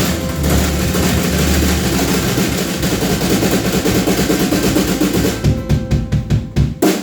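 Live band with ukulele and drum kit playing a fast tune, breaking into a run of hard accented hits together over the last couple of seconds and stopping suddenly on the final one.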